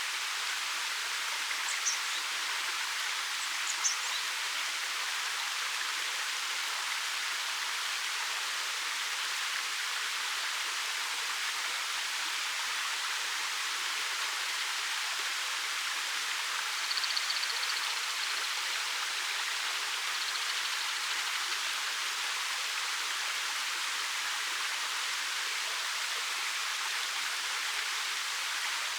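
Steady rush of a 13 m waterfall pouring over rock, an even hiss of falling and splashing water with no change in level.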